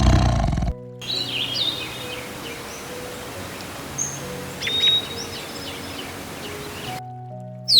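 Small birds chirping and whistling in short sweeping calls over a steady background hiss. It is preceded by a loud low rumble that cuts off abruptly under a second in, and near the end a new clip starts with steady tones and a sharp squawk.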